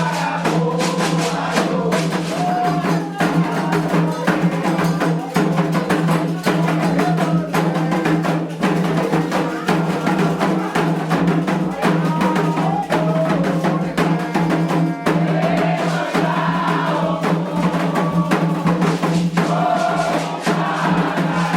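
Candomblé ritual music: atabaque hand drums and a struck bell such as the agogô playing a steady, driving rhythm, with voices singing a chant over it.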